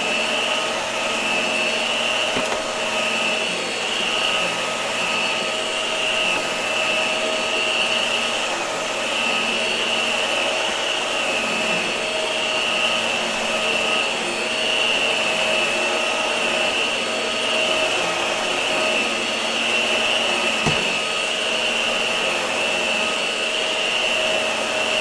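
Hart vacuum cleaner running steadily while vacuuming: a constant high motor whine over rushing airflow. There is one soft low bump near the end.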